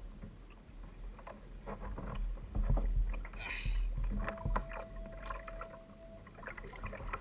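Scattered knocks and handling sounds aboard a fishing kayak over a low rumble of water and wind, with a thin steady tone held for about two seconds midway.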